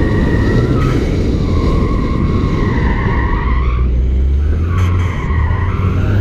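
A Ford Fiesta ST's turbocharged 1.6-litre four-cylinder engine running hard on an autocross course while its Falken Azenis RT-615K tyres squeal through the corners. The squeal comes in two long swells that dip and rise in pitch, with the engine note climbing near the end.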